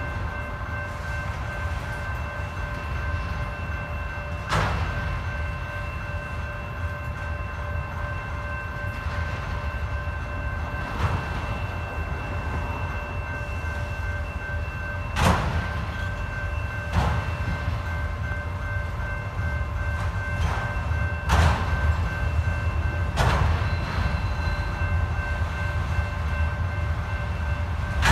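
Autorack freight cars rolling past a grade crossing: a steady low rumble of wheels on rail, broken every few seconds by a sharp clank. Over it, the crossing bell rings steadily.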